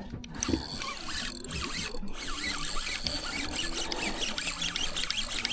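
Fishing reel being cranked in against a pulling snapper, a fast run of small squeaks and clicks from the reel.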